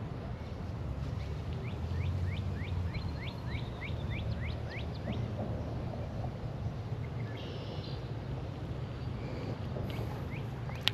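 A small bird calling a quick run of short, sweeping high notes, about three a second for several seconds, over a steady low rumble.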